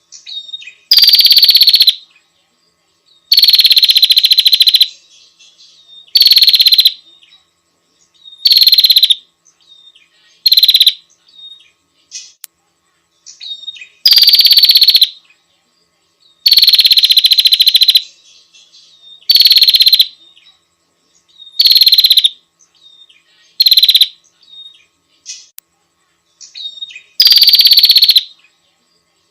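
Female prinia (prenjak) calling: about a dozen loud, buzzy, rasping calls in succession, each half a second to a second and a half long, with faint short chip notes in the gaps between them. This is the female's call to a male.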